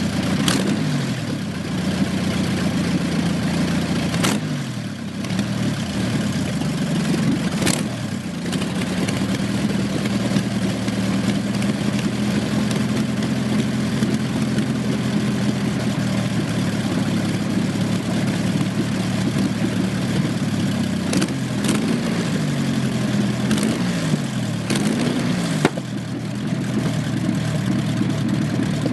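1929 Napier Bentley's 24-litre Napier Lion W12 aero engine running on stub exhausts, mostly holding a steady idle. The revs are blipped up and down a few times near the start and again about three-quarters through, with several sharp cracks.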